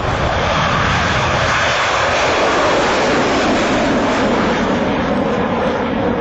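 BAe Jetstream 41 twin turboprop airliner flying past, its engines and propellers making a loud, steady sound.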